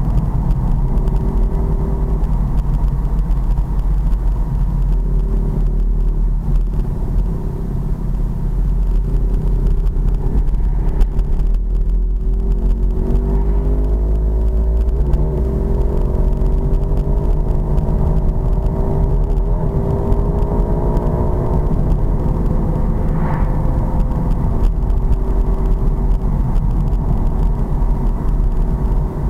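Road-legal pit bike engine running under way over a steady low rumble. About halfway through, its pitch rises and then falls back as the revs change.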